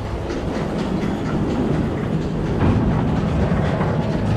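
New Holland BB940 large square baler running, driven by the tractor's PTO: a steady mechanical clatter over a low drone, the machine running smoothly with its pick-up chains freshly tightened.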